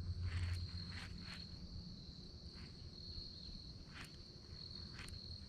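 Quiet outdoor background with a steady thin high-pitched whine, a low hum that fades out about two seconds in, and a few faint scattered ticks.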